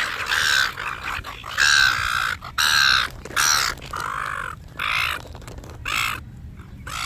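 Wild birds competing for handed-out nuts, giving a run of about eight harsh, drawn-out, crow-like calls one after another.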